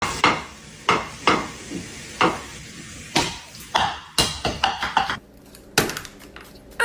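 A series of about a dozen irregular sharp knocks or taps, coming in quicker succession about four seconds in.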